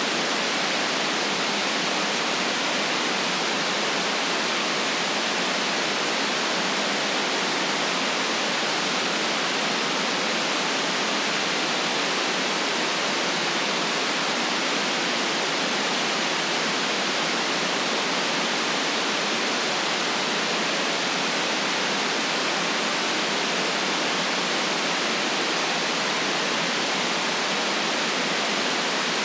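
Continuous white noise for relaxation: an even, unchanging hiss with no deep bass.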